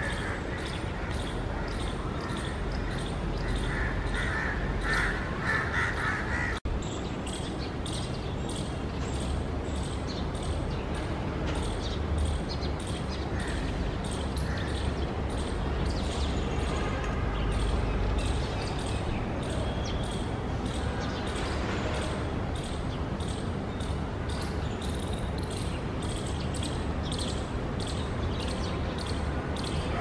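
Birds calling over a steady outdoor hiss, the calls clustered in the first six seconds, with a brief dropout about six and a half seconds in.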